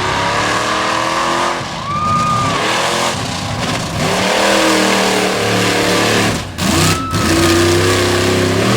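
Mud-racing Jeep's engine revving hard through a slalom, climbing and dropping in pitch several times as the driver gets on and off the throttle.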